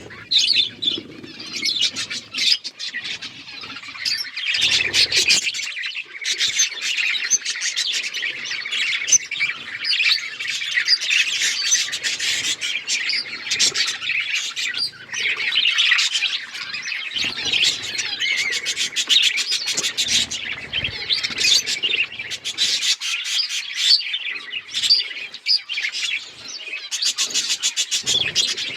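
Budgerigars chattering and chirping continuously, several birds at once in a dense, overlapping stream of high chirps. A few short low rustles come about five seconds in, around twenty seconds and near the end.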